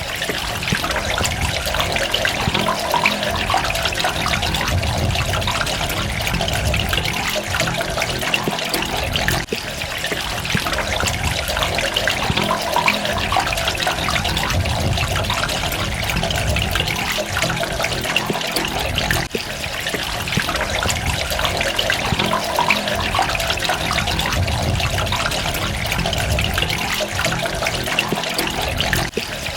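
Water running and trickling steadily, with dripping droplets, the level dipping briefly about every ten seconds.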